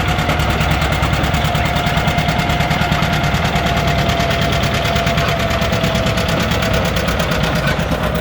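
John Deere 820's two-cylinder diesel engine running hard under load on a sled pull, a rapid, even popping from the exhaust. A thin steady whine slowly drops in pitch across the run.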